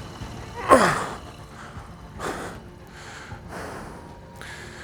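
A man panting hard in short, breathy gasps, with a falling groan about a second in: out of breath from the strain of getting a heavy motorcycle up a muddy slope.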